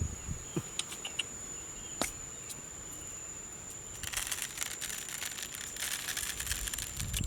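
A steady, high-pitched insect drone, likely a cricket, carries on throughout. A few sharp clicks fall in the first two seconds, and from about four seconds in there is a stretch of dense crackling rustle.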